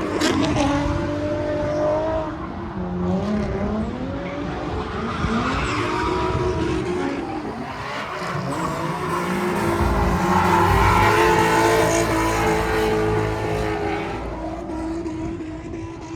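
Car doing a burnout: engine held at high revs, its pitch swinging up and down again and again, with tyres squealing.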